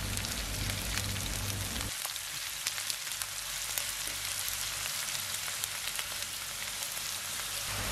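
Chopped onions and curry leaves frying in hot oil in a non-stick pan: a steady sizzle with small crackles.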